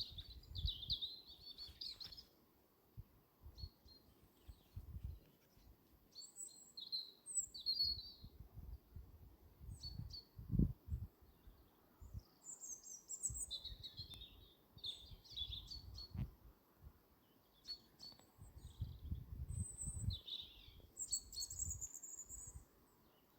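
Small birds chirping in short, scattered calls, with intermittent low rumbles beneath.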